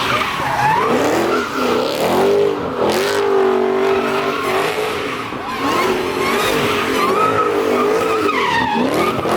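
A car doing drifts or a burnout: the engine revs high and wavers while the tires squeal and screech.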